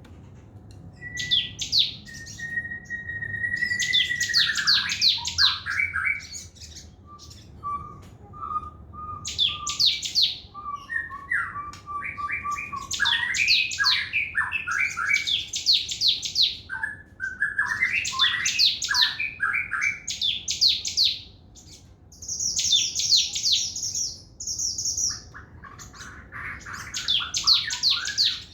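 Sogon trotol (spotted sogon songbird) singing a vigorous, varied song: phrases of rapid high trilled notes a second or two long, broken by short pauses and mixed with lower whistled notes, including one long held whistle near the start.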